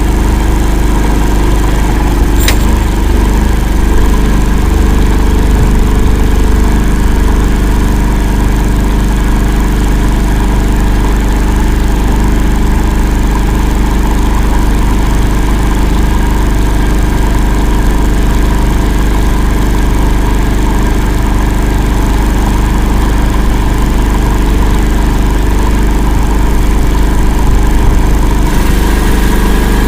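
Engine of the Akula all-terrain vehicle running steadily, a loud low drone, as it drives across swamp ground. A single sharp click comes about two and a half seconds in.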